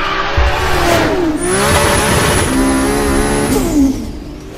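Sports car engines revving hard, the pitch climbing and dropping as they shift through the gears, with a thin high whine held through the middle. The sound fades out near the end.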